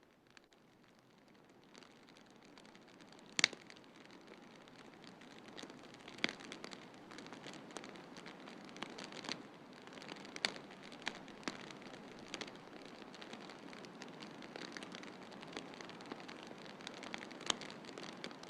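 Wood fire crackling in a fireplace, with scattered sharp pops, the loudest about three and a half seconds in, over the steady hiss of a snowstorm.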